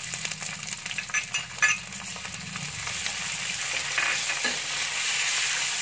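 Shiitake mushroom slices dropped into a wok of hot oil, butter and garlic, spitting with a few sharp crackles as they land. A steady sizzle follows and grows louder as they are stirred with a spatula.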